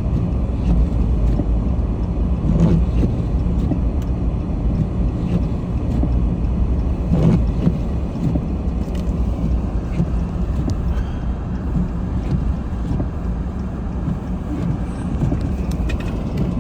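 Car driving on a snow-covered street, heard from inside the cabin: a steady low engine and tyre rumble with a few faint scattered knocks.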